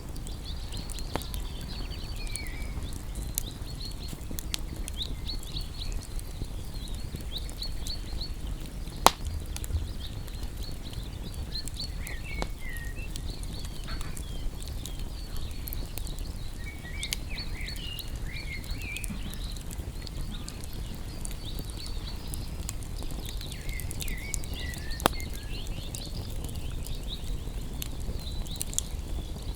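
Campfire of burning wood crackling over a low steady rumble, with two louder sharp pops, one about a third of the way in and one near the end. Insects chirp steadily in the background and a bird gives short warbling calls now and then.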